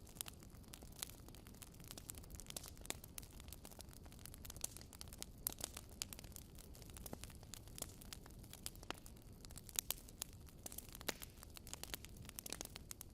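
Wood fire burning in a fireplace, crackling steadily with irregular sharp pops and snaps, a few louder than the rest.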